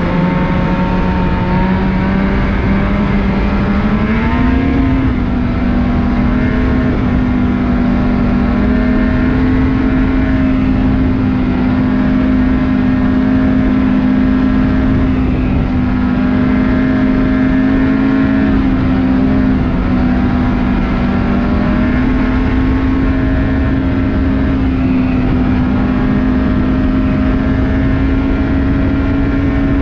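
Snowmobile engine, the two-stroke twin of a 2019 Ski-Doo Renegade 600R E-TEC, running steadily under way on a trail. Its pitch climbs about four seconds in and then holds high, with a few brief small dips.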